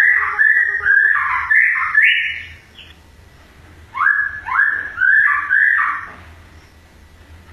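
Caged songbird singing a run of loud, repeated rising whistled notes, about two a second, then after a pause of a second and a half a second run of four such notes.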